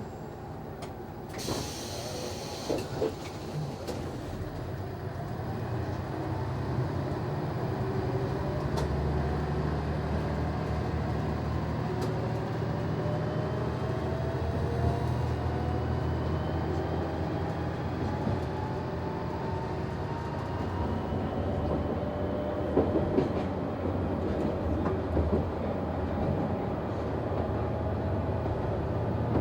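Diesel engine of an NT100 railcar working hard as the train gathers speed, its note rising again and again, over a low steady hum. A short hiss comes about a second and a half in, and wheels click over rail joints a few times.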